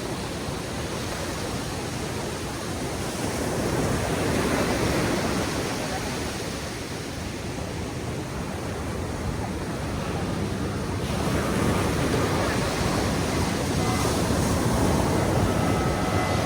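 Ocean surf: waves breaking and washing up the beach in a continuous rushing noise, which swells louder about four seconds in and again from about eleven seconds on.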